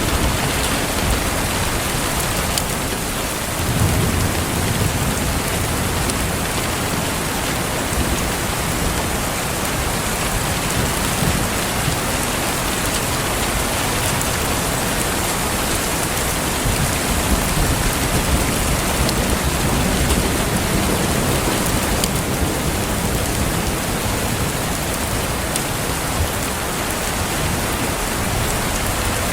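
Steady heavy rain falling on a surface, with a low rumble of distant thunder about four seconds in.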